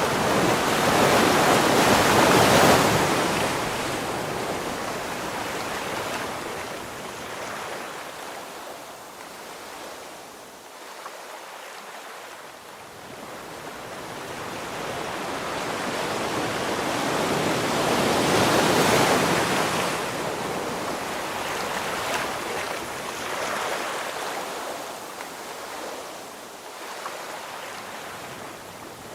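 Ocean waves breaking on a shore, a continuous wash that swells and fades: one big wave crashes about two seconds in and another around nineteen seconds, with smaller washes between.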